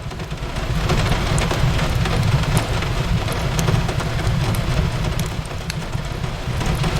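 Steady rain on a window pane, with a low continuous rumble underneath and sparse, sharp crackles and pops from a wood fire scattered through it.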